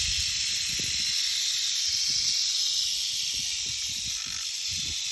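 A Southern Pacific rattlesnake rattling its tail in a steady, high buzz: a defensive warning from an agitated snake. A few soft low thumps sit underneath.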